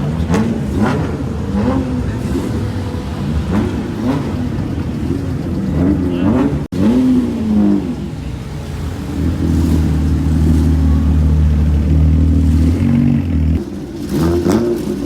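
Car engine revving in repeated blips, its pitch rising and falling, then holding a steady low drone for a few seconds near the end.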